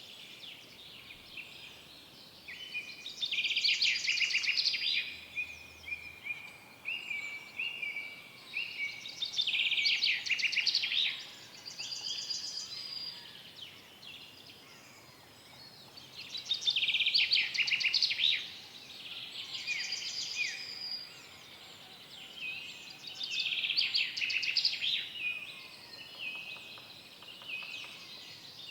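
Several songbirds singing: loud bursts of rapid, trilled song every few seconds, with a run of short repeated whistled notes early on between them.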